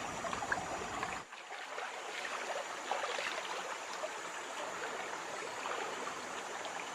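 River water flowing and trickling, with scattered small clicks over it.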